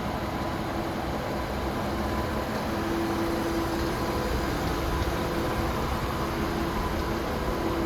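The DAF XF106's Paccar 510 bhp diesel engine idling steadily, a low rumble with a faint steady hum over it.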